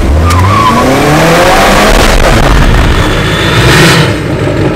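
Car engine pulling hard from a standstill, its pitch climbing steadily, then a loud rush of noise that swells and cuts off suddenly near the end.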